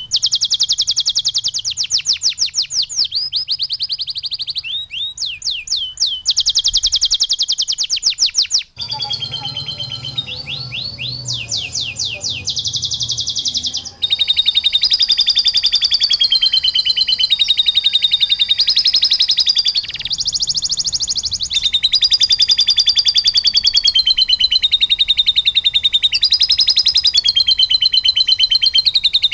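Domestic canary singing fast, high trills and rapidly repeated notes, its song filled with phrases learned from lovebirds. The song cuts off abruptly and restarts about 9 and 14 seconds in, where the recording is spliced.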